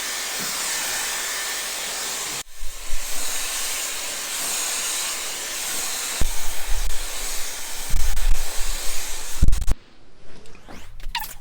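Dyson hair dryer blowing steadily, an even airy rush with a brief break about two and a half seconds in. Low rumbling buffets come over the last few seconds before it cuts off near the end.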